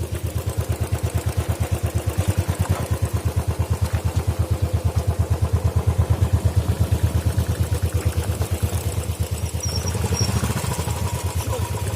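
Motorcycle engine idling, a steady, even low pulse.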